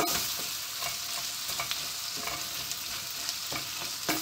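Chopped onions, peppers and tomato paste sizzling in butter and oil in a stainless steel pot while a spoon stirs and scrapes them, with scattered clicks of the spoon against the pot and a sharper knock near the end.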